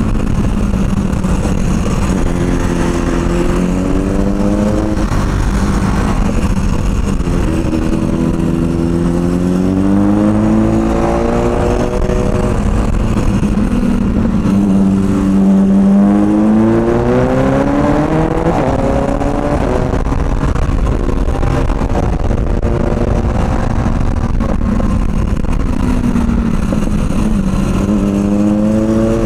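Motorcycle engine under way, its pitch climbing and dropping several times as the rider accelerates and eases off through the gears, over a steady rumble of wind on the microphone.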